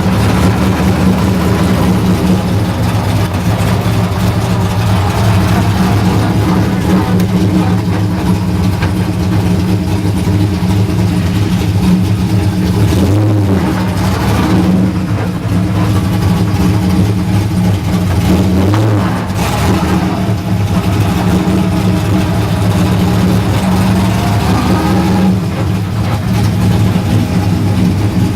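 Drift car engine running loud and steady, with the revs rising and dropping back a few times.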